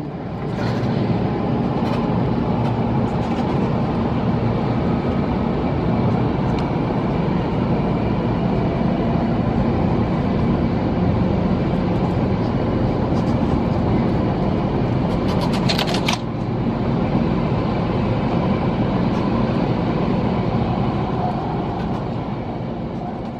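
JR Yokohama Line train car running between stations, with steady rail and motor noise. About two-thirds of the way through comes a few seconds of sharp rattling hits that stop abruptly: the abnormal noise the uploader puts down to overgrown grass sticking out over the line and striking the train.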